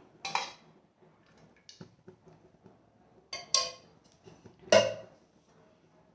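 A handful of separate clinks and knocks of a spoon against a pan and container as ghee is spooned in, with quiet stretches between them. The loudest knock comes a little before 5 seconds.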